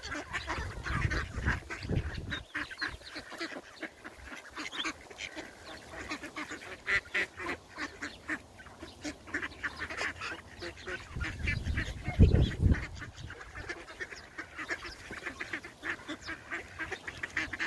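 A crowd of ducks calling over one another, many short, overlapping calls without pause. A brief low rumble on the microphone comes about twelve seconds in.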